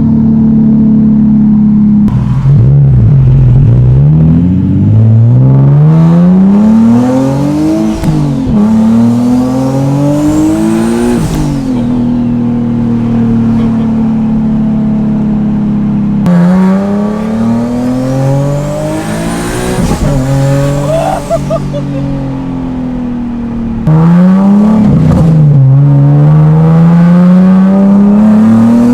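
Single-turbo Nissan 370Z's V6 pulling hard through the gears. The engine pitch climbs and drops sharply at each shift about five times, with steadier stretches between pulls. A faint turbo whistle rises with the revs.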